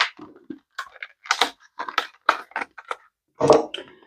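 Plastic blister packaging on a Hot Wheels card crinkling and clicking as it is pried and torn open by hand, a string of short sharp crackles with a louder burst about three and a half seconds in.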